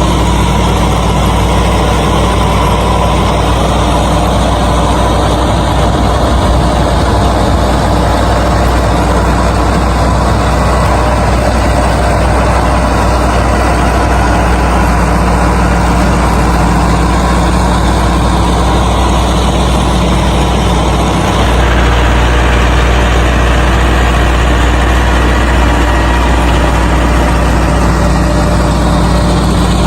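An engine running steadily at idle, a low continuous drone with a brief dip about 21 seconds in, slightly louder after it.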